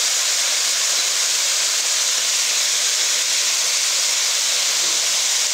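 Chicken and vegetable stir-fry (chicken strips, mushrooms, baby marrow) sizzling steadily in a frying pan, an even hiss with no pauses.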